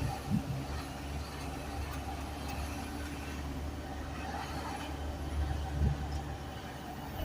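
Isuzu garbage truck's diesel engine running as the truck drives, a steady low drone, with two short thumps, one at the start and one near the end.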